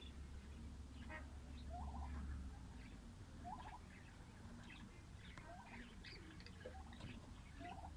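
Lovebirds chirping, with short calls repeated every second or two over a faint low hum.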